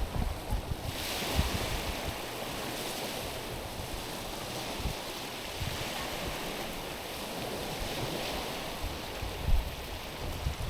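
Small sea waves washing in over stones, a steady hiss that swells and eases. Wind buffets the microphone with low rumbles near the start and again near the end.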